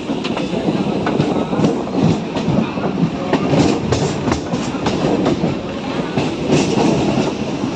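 Electric suburban multiple-unit train running, heard from its open doorway: a steady rumble with irregular sharp clacks as the wheels cross rail joints and points onto another track.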